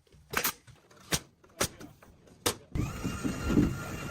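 Four sharp knocks, a little under a second apart, from work on a timber frame. About three seconds in, a steady noise with a faint high whine comes in.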